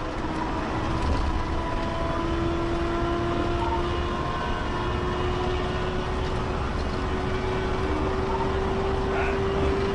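Patrol car running hard at high speed in a pursuit: steady, heavy road and wind noise with a low rumble, and one engine or drivetrain tone that climbs slowly in pitch.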